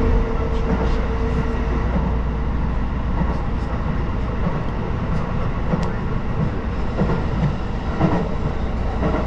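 Electric express train running along the track, heard from inside the front cab as a steady low rumble, with a steady tone in the first couple of seconds and a few sharp clicks later on.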